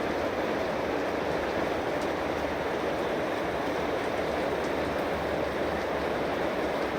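Heavy downpour of rain: a steady, even rush with no let-up.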